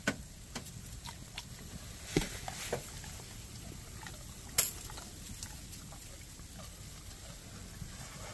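A dog chewing and crunching a cookie, with scattered small clicks and one sharper click a little after halfway.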